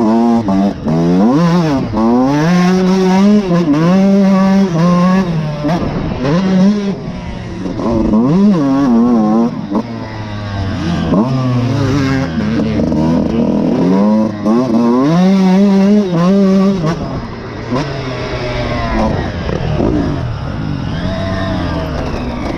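Suzuki RM125 two-stroke motocross bike being ridden, its single-cylinder engine revving up and dropping back again and again as it accelerates and shifts. It is somewhat quieter in the last few seconds.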